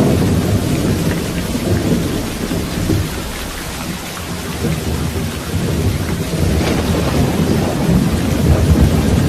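Steady rain with rolling thunder. The low rumble eases a few seconds in, then swells again toward the end.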